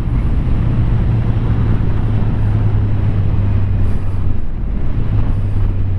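Motorcycle engine running at a steady pitch while riding, with wind and road noise on the helmet microphone.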